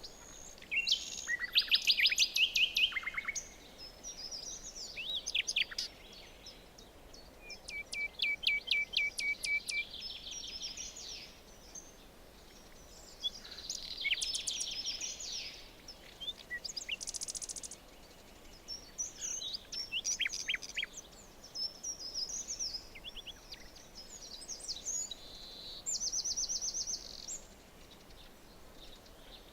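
Several songbirds singing, with overlapping chirps, whistles and rapid trills of short repeated notes, over a faint steady hiss of forest background.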